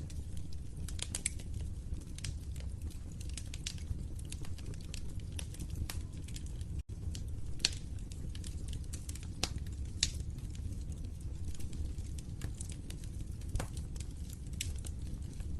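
Wood fire crackling: frequent sharp pops and snaps over a low, steady rumble of the flames, with a couple of louder pops past the middle. The sound cuts out for an instant about seven seconds in.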